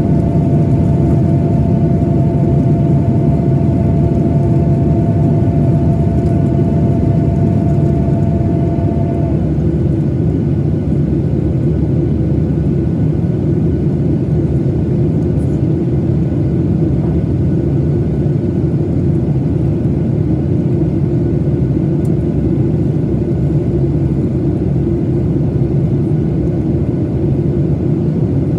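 Cabin noise of a Boeing 737-900ER with its CFM56-7B turbofans running: a steady roar with two steady whining tones that stop abruptly about nine seconds in.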